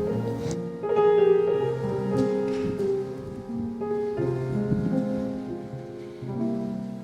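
Solo piano playing a slow introduction of sustained chords and melody notes, growing softer toward the end.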